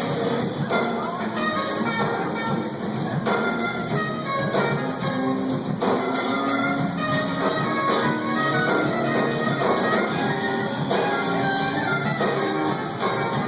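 A live band playing an instrumental passage, with a brass horn section prominent.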